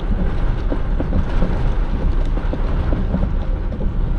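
Heavy rain pelting a parked box truck's cab, a dense patter of drops over a steady low rumble.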